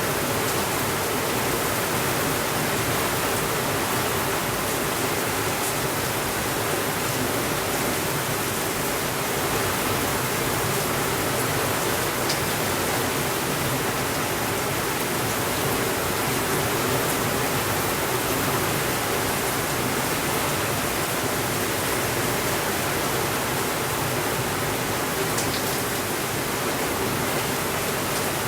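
Steady rainfall, an even hiss with no change in level, with a few faint ticks scattered through it.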